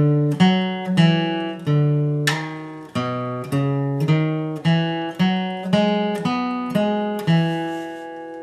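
Acoustic guitar flatpicked slowly, one note after another at about two notes a second, playing a bluegrass lead line. The last note, struck near the end, is left to ring.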